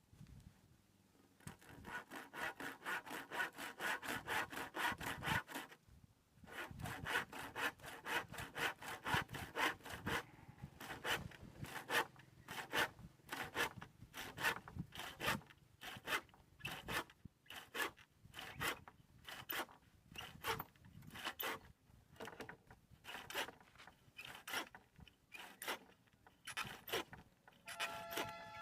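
Hand saw cutting through wood in a steady run of back-and-forth strokes, with a brief pause about six seconds in.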